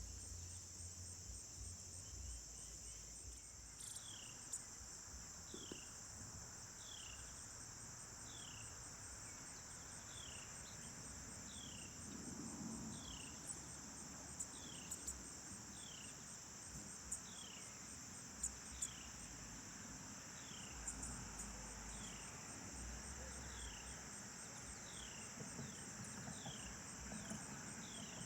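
Steady high-pitched insect chorus, crickets or similar. From a few seconds in, a bird gives a short falling call over and over, about once a second.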